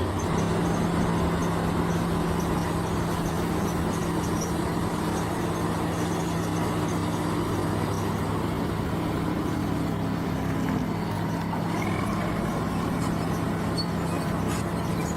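Heavy earthmoving machine's engine running steadily with an even low drone.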